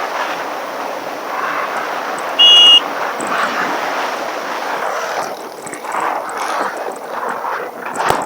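Wind rushing over the camera microphone while riding a road bike, with the sound of traffic. About two and a half seconds in, a short, loud, high-pitched beep sounds once.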